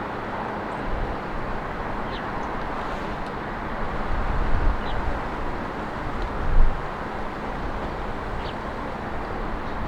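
Steady road traffic noise from passing cars, with a brief louder swell about two-thirds through. A few short, faint bird chirps are heard over it.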